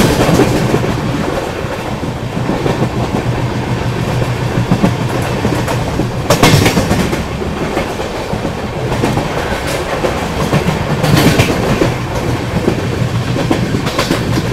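Bandra–Bhuj AC Superfast Express running at speed, its coach wheels clattering over the rail joints, heard close from the side of the coach. There are two louder bursts of rattling, about six and eleven seconds in.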